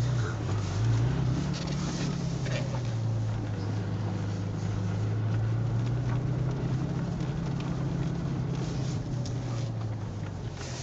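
Twin-turbo Porsche 911 GT3's flat-six engine droning at steady revs. Its pitch wavers up and down in the first couple of seconds, then holds even.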